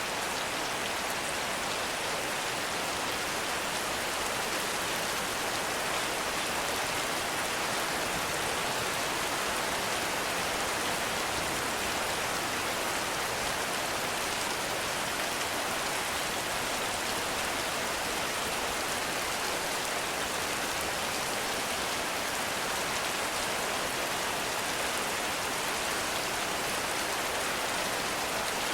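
Heavy rain falling steadily, an even hiss of rain without thunder or breaks.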